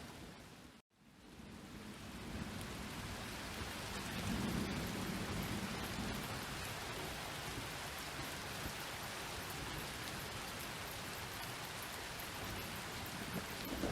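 Steady rain falling during a thunderstorm, with a low rumble of thunder swelling about four to six seconds in. About a second in, the sound cuts out to silence for an instant and the rain fades back up, as at a splice in the recording.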